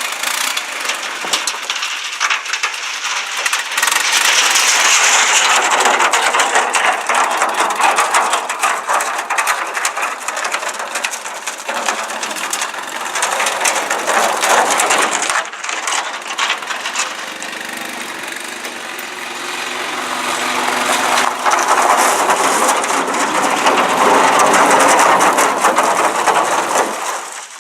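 Wood fire burning, a dense run of crackles and sharp pops that swells and eases in loudness.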